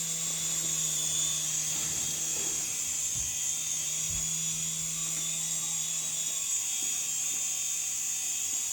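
Small remote-control toy helicopter in flight, its electric motor and rotor giving a steady high whine over a steady low hum.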